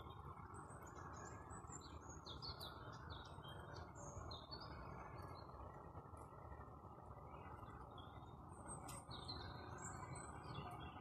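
Faint birdsong: small songbirds chirping and twittering in many short, high notes, some slurring down in pitch, over a steady low background hiss and hum.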